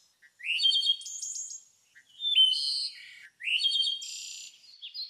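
Songbird singing: three whistled, chirping phrases about a second and a half apart, each opening with a quick rising note and then running into repeated high chirps.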